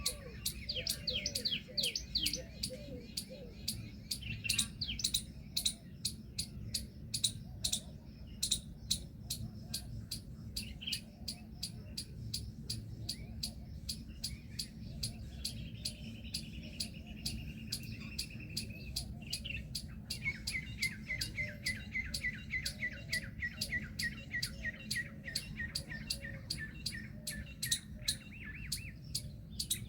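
Birds calling, with many short sharp chirps or clicks throughout. About halfway in comes a fast run of high notes, and near the end a long series of rapid repeated notes. A steady low hum lies underneath.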